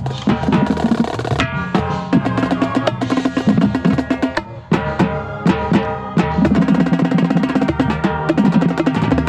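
Marching tenor drums (quads) played close to the microphone in a fast, busy run of strokes, with pitched music underneath.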